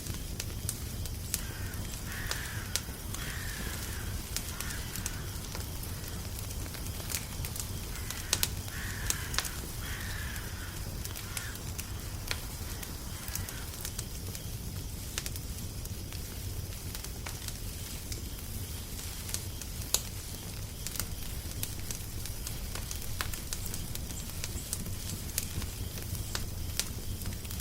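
Crackling fire: a steady low rumble with sharp pops and crackles scattered throughout. A bird calls in two runs of short calls, once a couple of seconds in and again from about eight seconds in.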